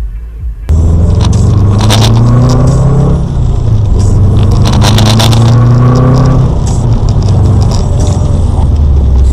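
Car engine accelerating hard, its pitch climbing twice and dropping at each gear change, with short scraping and rattling noises over it. The sound starts abruptly about a second in.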